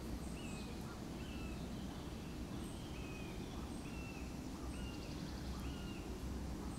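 A bird calling in the woods: about six short, even notes, roughly one a second, over a steady low background rumble.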